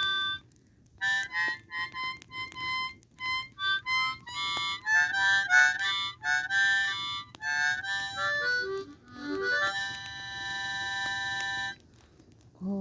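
Blues harp (ten-hole diatonic harmonica) playing a melody in single notes: a run of short notes, then a long held note that stops shortly before a new, lower note begins near the end.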